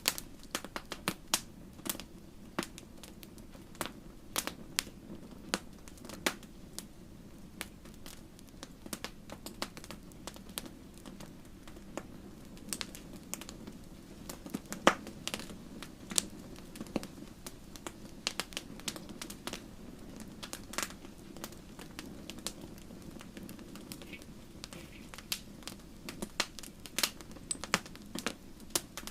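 Wood fire crackling in a fireplace: irregular sharp pops and snaps, several a second, with a louder pop about halfway through, over a steady low hum.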